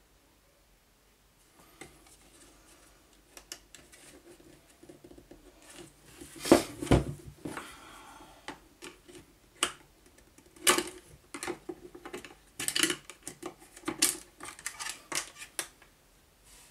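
Irregular clicks, clinks and scrapes of hand tools and small metal parts while a miter saw's electric motor is taken apart at its brush holders, with several sharp, louder knocks in the middle.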